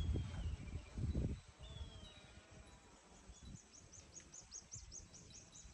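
Faint forest ambience with birds calling: two short falling whistles, then from about four seconds in a quick run of high chirps. Low rumbling knocks, like footsteps or handling of the camera, come in the first second or so.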